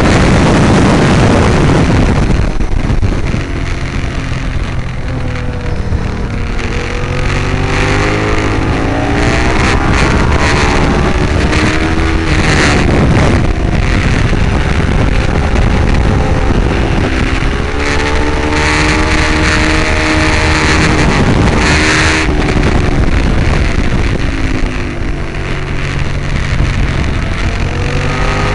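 Ducati 848's L-twin engine at race pace, its pitch climbing and falling again and again as the bike accelerates and slows through corners, with heavy wind noise on the onboard microphone that is loudest for a few seconds about two-thirds of the way through.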